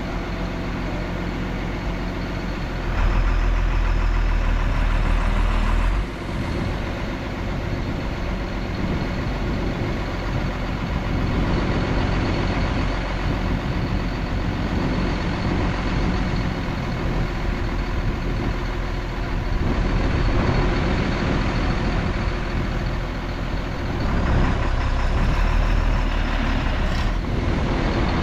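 Diesel engines of heavy earthmoving machinery (bulldozer and dump trucks) running steadily. The engines go louder under load for a few seconds about three seconds in and again near the end.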